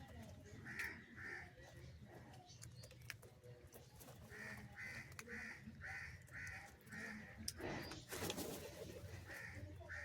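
Crow cawing: a pair of short caws, then a run of about seven quick caws at roughly two a second, then two more near the end. A brief loud rustle comes just after the run.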